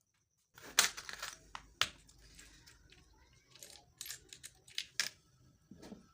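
Handling noises while the tool and its packaging are unpacked: a string of sharp clicks and knocks with rustling between them, the loudest about a second in, just before two seconds and around five seconds. The tool's motor is not running.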